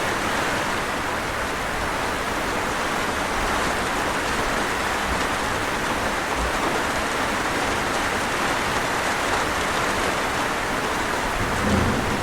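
Steady rain falling, an even hiss of drops on surfaces with no break. Near the end there is a brief low thump.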